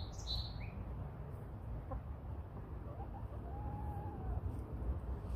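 Free-range backyard hens clucking softly, with one drawn-out call about three and a half seconds in.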